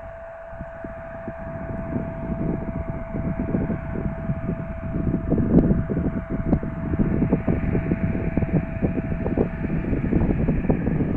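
Jet airliner engines running with a steady whine over a broad rumble that grows louder a couple of seconds in, with wind buffeting the microphone.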